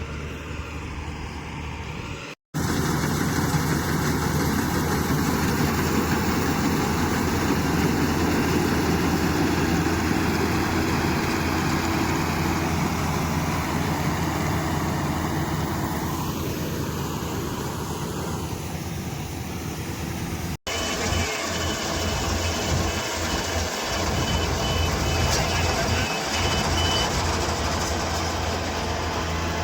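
Yanmar mini crawler combine harvester's engine running steadily under load, cut off briefly twice. In the later part, a rapid electronic beeping repeats for several seconds over the engine.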